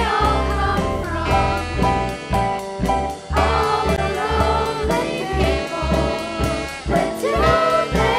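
A band playing a song, with a sung melody over bass and drums keeping a steady beat.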